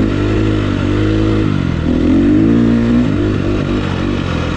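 GasGas EX350 four-stroke single-cylinder dirt bike engine being ridden, its pitch rising and falling with the throttle and loudest about two seconds in.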